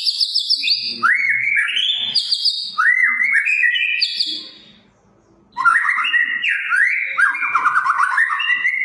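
White-rumped shama (murai batu) singing a loud, fast run of varied whistled notes and rapid trills. It sings two long phrases with a short pause about five seconds in.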